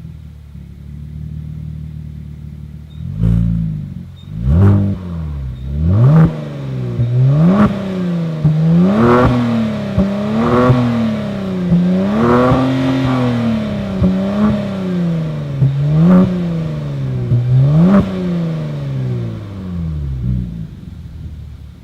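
Kia Stinger GT's 3.3-litre twin-turbo V6 idling, then blipped a few times and revved up and down about eight times in a row, the pitch climbing and falling with each rev before settling back near the end.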